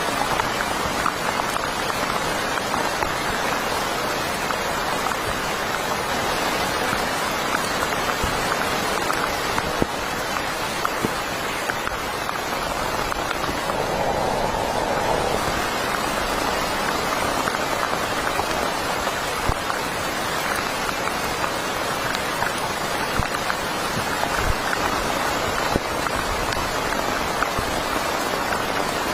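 Heavy rain falling steadily, a dense hiss of many small drop impacts.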